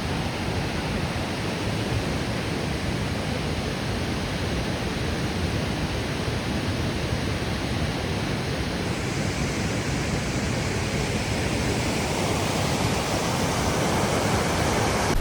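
Steady rush of a waterfall, an even noise that grows slightly louder toward the end.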